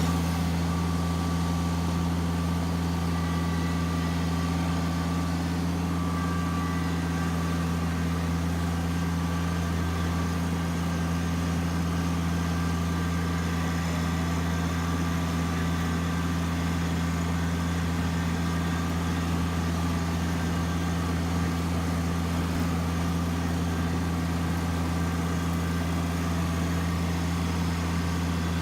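A vehicle engine idling steadily, an even low hum that holds unchanged.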